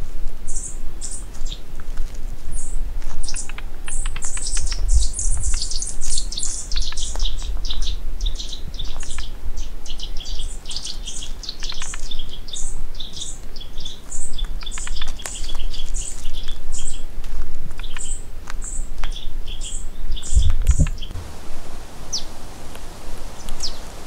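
Small forest birds chirping: many quick, high-pitched calls overlapping, over a low rumble. About 21 seconds in the chirping gives way to an even hiss.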